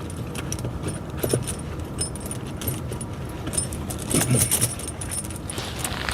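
Steel tractor snow chain links clinking and jangling as the chain is handled and laid over the tire tread, in a few short bursts, the busiest about four seconds in.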